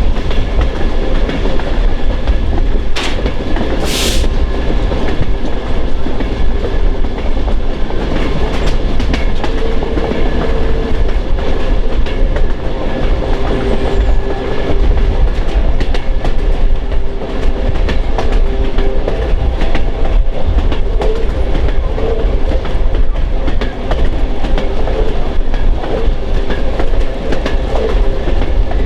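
Train running on the rails: a steady, loud rumble with rapid clicking of the wheels over the track, and faint steady tones under it. A short high hiss cuts in about four seconds in.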